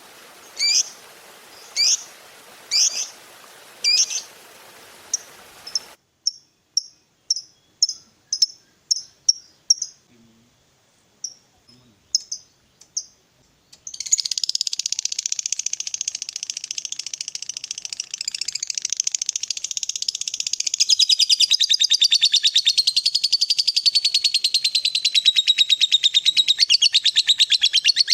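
Lovebird calling: sharp chirps repeated about once a second, then quicker short chirps. From about halfway comes a long, unbroken, very rapid chattering trill, the 'ngekek panjang' of a fighter lovebird, which gets louder in the last part.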